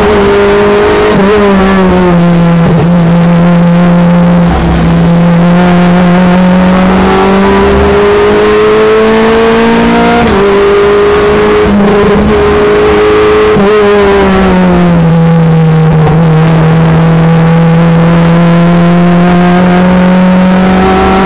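Renault Clio Mk3 Cup race car's 2.0-litre four-cylinder engine at full throttle on track, heard from inside the cabin. Its note climbs steadily under acceleration, jumps and drops sharply at gear changes about a second in and again around ten seconds in, and falls away as the car slows about two-thirds of the way through before climbing again.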